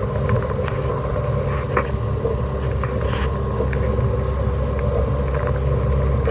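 Noise inside a car's cabin while driving in heavy rain: a steady low rumble of the engine and tyres on a wet road, with scattered light ticks of raindrops hitting the car.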